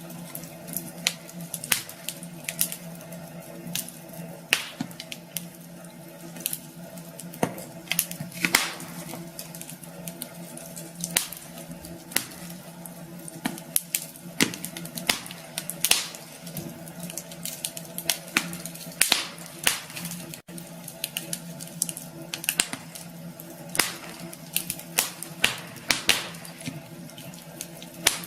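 Wood fire crackling in a fireplace: irregular sharp pops and snaps, sometimes several in quick succession, over a steady low hum.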